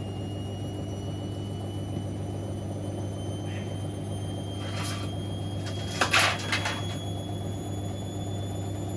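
Siemens Extraklasse XLs 140 A washing machine running mid-cycle: a steady motor hum with a thin whine that rises slowly in pitch. A brief burst of noise comes about five seconds in, and a louder one about six seconds in.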